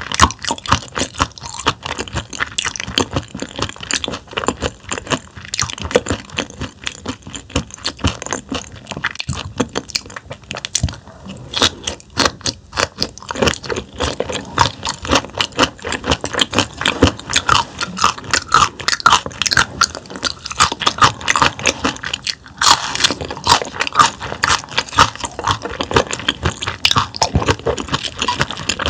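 Close-miked chewing of bone-in raw damselfish sashimi: a rapid, irregular run of crunches as the tough bones are chewed.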